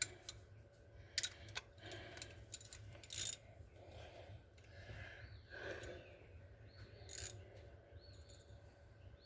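Metal hand tools and hardware being handled, with scattered clicks and clinks, a few of them sharper and louder.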